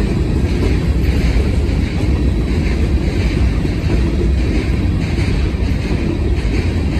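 Freight train of trash cars rolling past: a steady rumble of steel wheels on the rail with a faint regular beat. The wheels run smooth, with few flat spots pounding.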